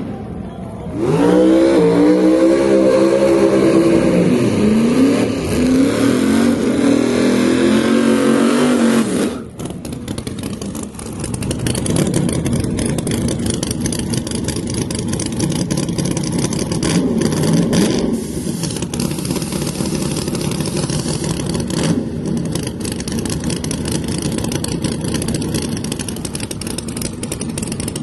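Drag race car engine at full throttle, its pitch climbing and dropping back several times over about eight seconds. It then cuts off suddenly, and a rougher, steadier engine sound takes over for the rest.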